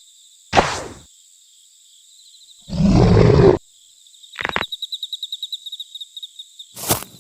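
Spooky sound-effect track: a short, low animal roar or growl lasting about a second, set against a steady chirping of night insects, with a sharp hit shortly before it and another near the end.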